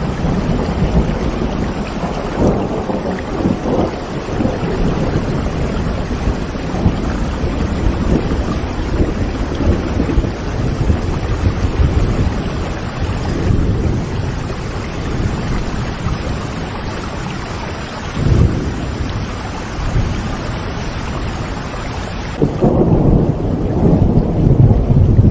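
Steady heavy rain with rolling thunder, deep rumbles swelling a few times and loudest near the end.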